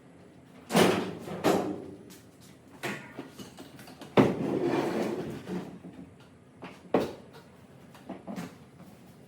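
Junk and garbage being tossed into a pickup truck's bed: a series of irregular bangs and knocks, with a longer clattering rattle around four seconds in.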